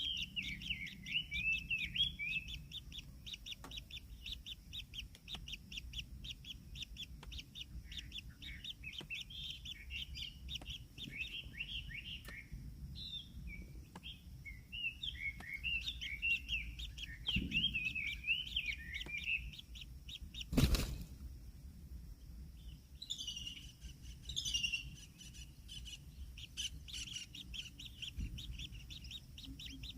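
Kingfisher chicks chirping rapidly and without a break, many short high notes a second, some of them wavering up and down. One sharp knock about two-thirds of the way through.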